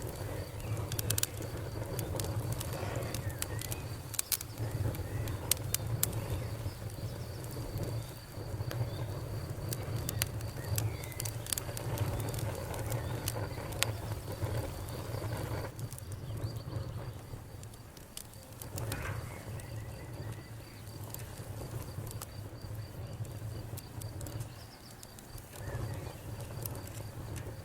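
Wood fire burning in a fireplace: irregular sharp crackles and pops over a steady low rumble of the flames. The crackles come thick at first and thin out in the second half.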